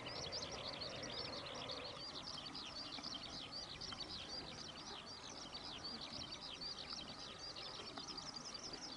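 A steady chorus of short, high-pitched chirps from wildlife, several a second without a break. No aircraft engine is heard.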